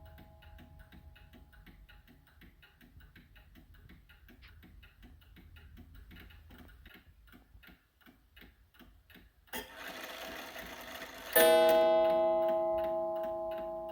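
Seth Thomas beehive mantel clock ticking steadily, with the ring of an earlier strike fading at first. Near the end a whirring runs for about two seconds, then the clock strikes once, loud and ringing, the tone slowly dying away.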